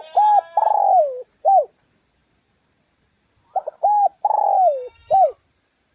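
Spotted dove cooing in two phrases about three and a half seconds apart. Each phrase is a few short arched coos with a longer coo that slides down in pitch before a final short note.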